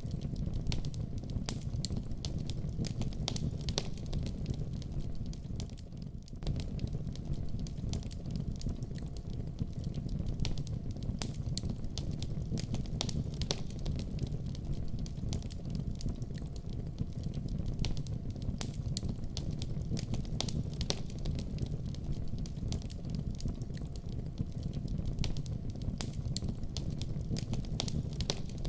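Wood fire burning in a fireplace: a steady low rumble of flame with frequent irregular pops and crackles.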